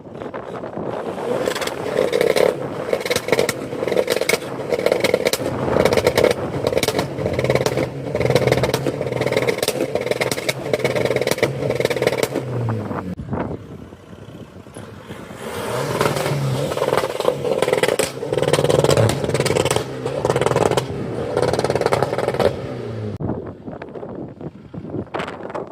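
Car engine running with a steady low note and a rattly clatter over it, in two loud stretches with a quieter dip of a few seconds between them.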